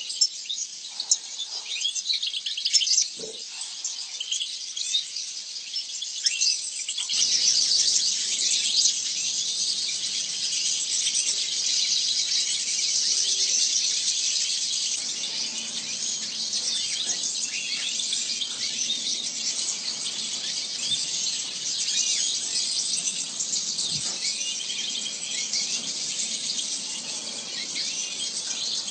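A flock of small birds chirping and twittering together in a dense, continuous chatter, a little louder from about seven seconds in.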